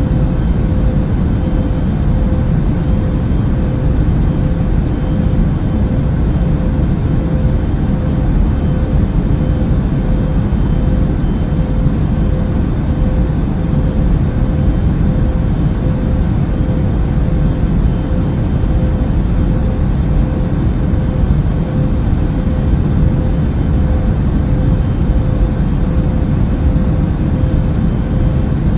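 Airbus A380 cabin noise in cruise flight: a steady, deep rush of engine and airflow noise with a faint constant hum over it.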